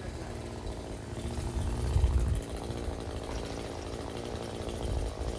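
Small two-stroke engine running. It gets louder a little over a second in, then eases back to a steady run.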